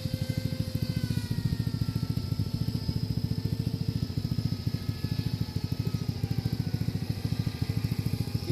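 High whine of an RC seaplane's electric motor slowly falling in pitch as it throttles back to land. Underneath is a louder, low, fast throbbing.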